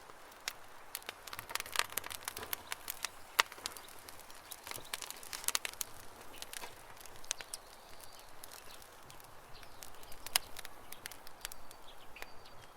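Campfire crackling, with irregular sharp pops and snaps, the loudest about three and a half seconds in and again about ten seconds in. Faint bird chirps sound in the background.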